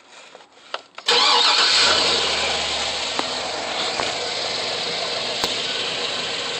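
GM LY6 6.0-litre V8 cold-starting: a couple of faint clicks, then about a second in it fires and flares up loudly, settling within a couple of seconds into a steady idle.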